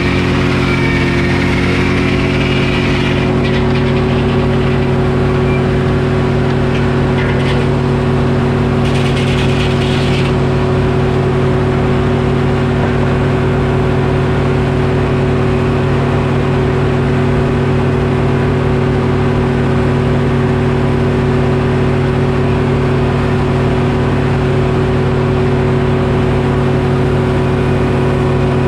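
Detroit Diesel engine of a Frick sawmill running at a steady speed, with a short higher hiss about nine seconds in.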